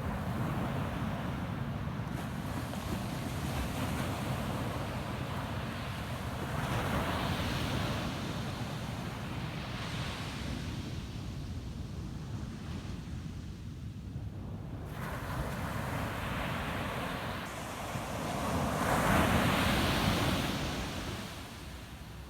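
Ocean surf on a sandy beach: waves breaking and washing up in several swells, the loudest near the end, over a steady low rumble of wind on the microphone.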